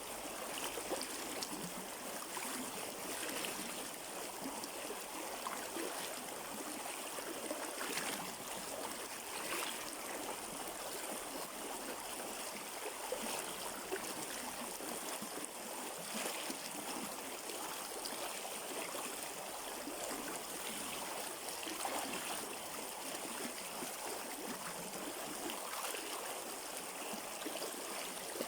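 Shallow river flowing over rocks: a steady rush of running water with small irregular splashes and gurgles.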